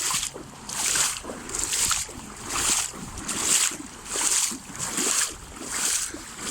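Legs in waders wading through shin-deep floodwater: a rhythmic swish and slosh with each stride, a little under one step a second.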